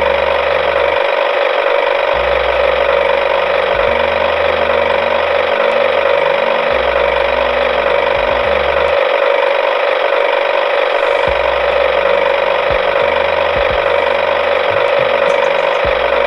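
A small motor running steadily with a continuous whirring buzz that does not change for the whole stretch.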